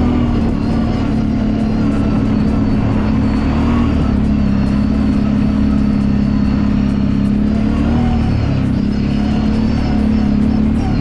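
Kawasaki Brute Force 750 ATV's V-twin engine running at a fairly steady speed under way, its pitch wavering slightly with the throttle.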